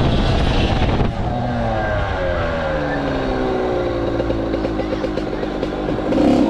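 Dirt bike engine running, its pitch sliding slowly down over several seconds, then rising again near the end.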